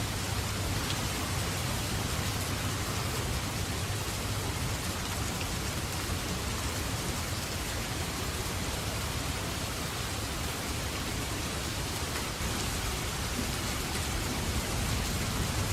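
Steady rain falling, an even hiss of drops. A low rumble of distant thunder runs underneath, strongest in the first few seconds.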